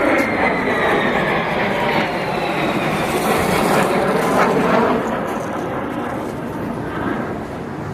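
Jet aircraft flying past, a loud rushing roar with a whine that falls in pitch as it passes, swelling to its loudest about four to five seconds in and then fading.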